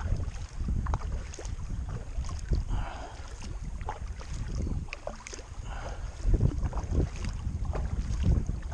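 Kayak paddling on a river: paddle blades dipping and splashing in the water in an irregular rhythm, with wind buffeting the microphone.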